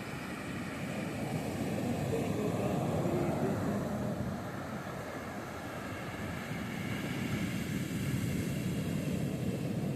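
Sea waves breaking and washing up on a sandy beach, a steady surf noise that swells twice, about three seconds in and again near the end.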